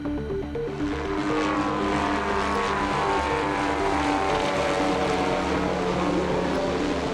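MD-530G light helicopter flying past, its turbine and rotor sound rising and then falling in pitch.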